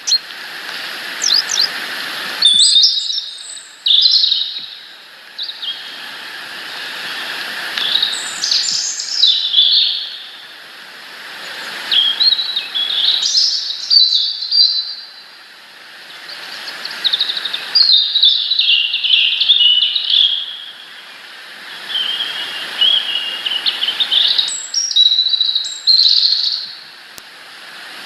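Small garden songbirds chirping and calling in quick, overlapping bursts, over a rushing noise that swells and fades every few seconds.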